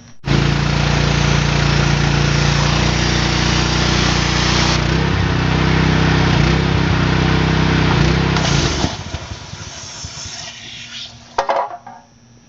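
Gas pressure washer running, its small engine note under the hiss of the spray, then stopping abruptly about nine seconds in, with quieter fading noise after. The owner blames the trouble on its carburetor.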